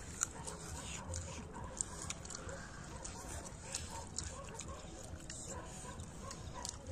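Mukbang eating sounds: close-up chewing and lip-smacking of people eating rice and curry with their hands, a string of short irregular smacks and clicks.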